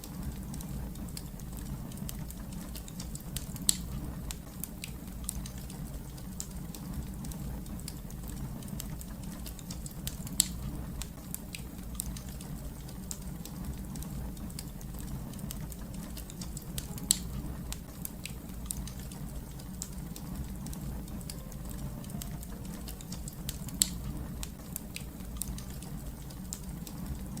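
Wood fire crackling: a steady low rumble of burning with a constant scatter of small crackles, and four louder pops evenly spaced about seven seconds apart.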